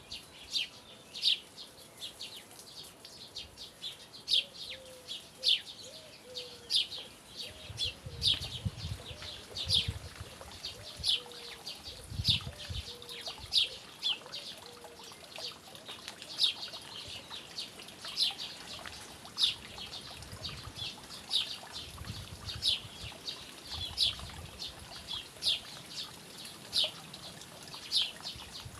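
A small bird chirping over and over, short sharp high calls one or two a second, with faint low rumbling now and then.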